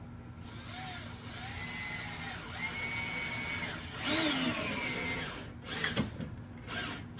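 Power drill driving a screw through a wooden support board into the wall. Its motor whine starts about half a second in, shifts in pitch as the screw bites, swells near the end of the run and stops after about five seconds, followed by a few short clicks.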